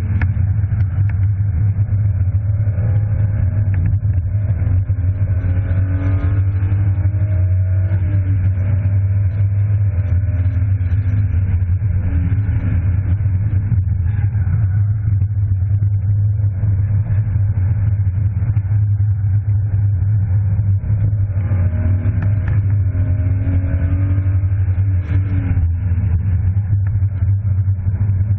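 BMW E36 325i's 2.5-litre straight-six heard from inside the cabin, climbing in pitch under hard acceleration and falling away sharply three times as the driver shifts or lifts. A constant low rumble runs underneath.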